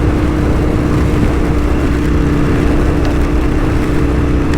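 Aprilia RSV1000's V-twin engine running at steady revs while the motorcycle is ridden, with wind and rain noise rushing over the microphone.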